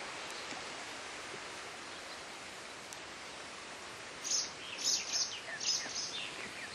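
Quiet outdoor ambience, a steady soft hiss, with a small bird chirping a run of short, high, falling notes starting about four seconds in.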